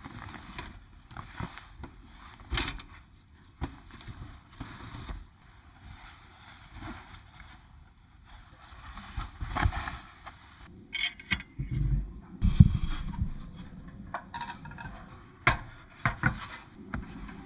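Irregular knocks, clicks and scraping of objects being handled, with rustling in between, busiest and loudest about ten to thirteen seconds in.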